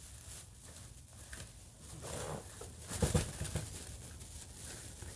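Intake kit parts and packaging being handled and set down: light rustling and clatter, with a louder knock about three seconds in.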